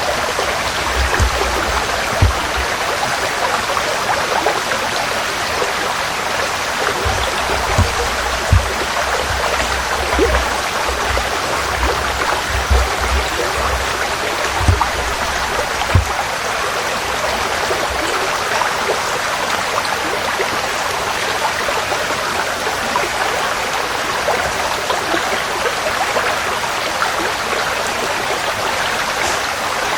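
A small forest stream running steadily over stones. Irregular low thumps sound under it through the first half and then stop.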